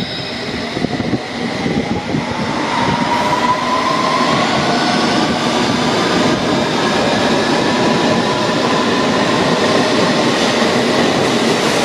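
London Underground District line S7 Stock train accelerating away from the platform, its traction motors whining up in pitch over wheel and track noise that grows louder as it picks up speed.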